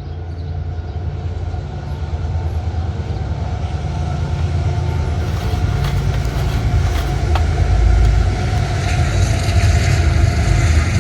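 A steady engine rumble that grows gradually louder throughout.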